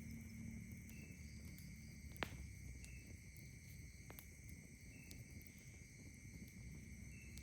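Night insects trilling steadily and faintly, with a short chirp repeating about every two seconds. A single sharp crackle from a campfire about two seconds in, and a few fainter pops after it.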